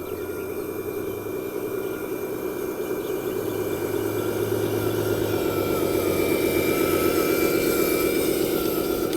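Small electric motors and gearboxes of a radio-controlled model construction vehicle running with a steady whine, growing louder over the first seven seconds or so, then easing off a little.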